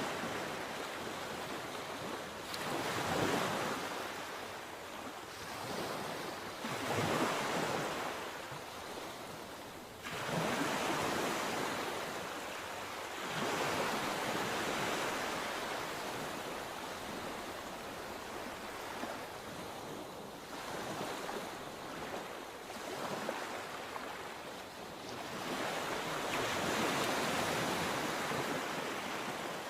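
Sea waves breaking on a shore, each wash of surf swelling up and falling back every few seconds.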